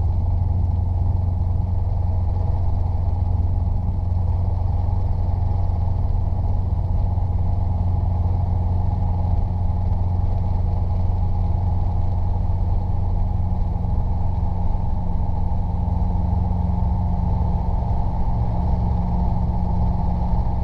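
Robinson R22 helicopter's piston engine and rotors running steadily with a deep hum. The low tone shifts slightly about two-thirds of the way through.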